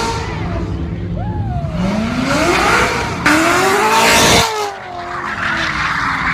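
Car engine revving with a rising pitch, then about a second of loud tyre squeal and skidding.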